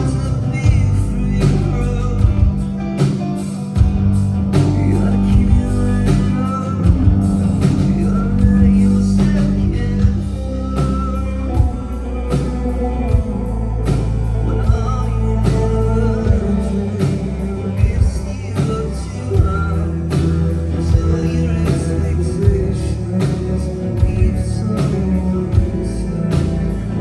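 Rock band playing live: drum kit keeping a steady beat under heavy bass and guitar, with a singer's voice.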